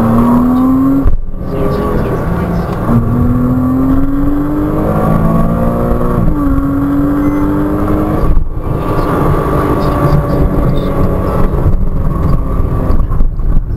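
Porsche Cayman 987.2's 2.9-litre flat-six engine heard from inside the cabin, driven hard between bends. Its pitch rises in three long climbs under acceleration, broken twice by sudden brief cut-outs and once by a dip under braking.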